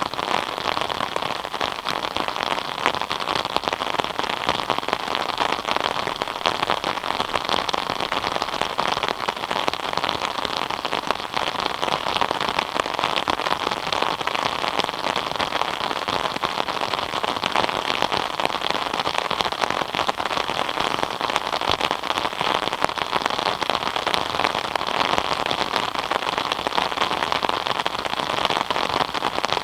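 Steady rain falling, a dense even patter of drops on surfaces with no letup.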